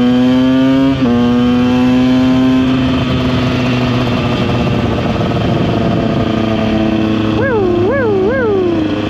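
KTM EXC 125 two-stroke single-cylinder engine under acceleration, its pitch climbing, with a short break and drop about a second in, as at a gear change, then climbing again. It then eases off, and near the end the pitch rises and falls three times in quick succession.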